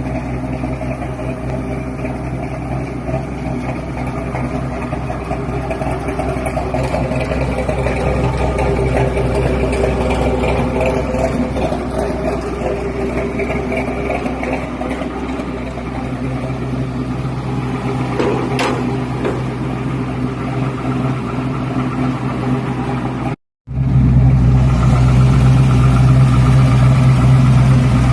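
Chevrolet Brookwood station wagon's engine running steadily, freshly tuned on a dyno. The sound cuts out for a moment about 23 seconds in and comes back louder.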